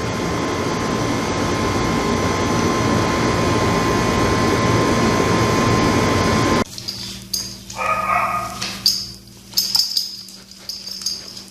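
A loud, steady rushing noise stops abruptly about two-thirds of the way through. It gives way to a quieter scene with a single pitched animal whine of about a second and scattered light clicks and knocks.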